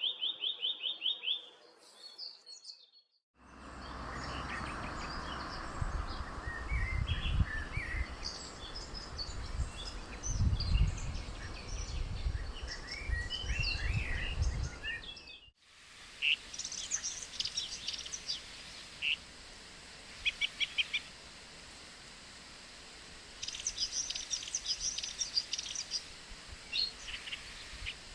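Wild birds singing and calling in short high chirps and trills, in separately recorded takes that change abruptly about three and fifteen seconds in. A low rumble runs under the calls in the middle take.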